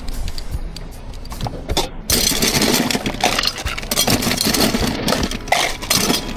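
Coffee-making equipment: a few light clicks and knocks, then a loud steady machine noise switches on abruptly about two seconds in and keeps running.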